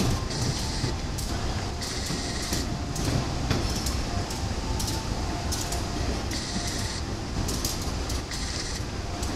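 Electric commuter train rolling slowly over station pointwork, with a steady running noise and scattered clicks as the wheels cross rail joints and points.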